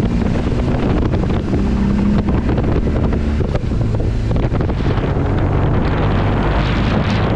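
Heavy wind noise rumbling and buffeting across an action camera's microphone at speed, over a steady vehicle engine drone.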